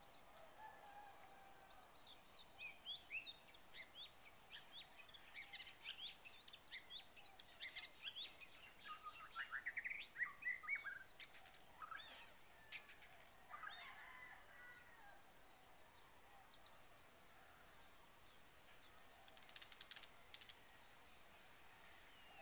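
Faint chirping of several small birds, many short high calls overlapping over a low background hiss, busiest in the first half, with a quick run of rising notes about ten seconds in; the calls thin out past the middle and a few return near the end.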